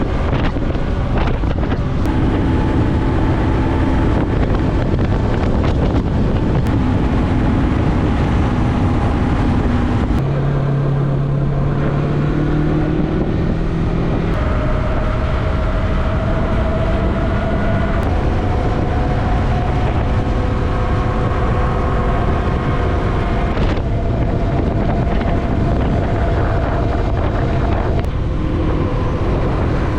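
Yamaha MT-03 motorcycle engine running at road speed, with heavy wind noise on the microphone. The engine note dips about ten seconds in and then settles at a different pitch several times.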